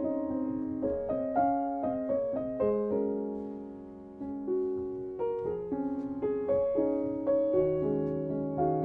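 Gentle solo piano music, with single notes and chords struck one after another and left to ring down; there is a slight dip in the notes about four seconds in.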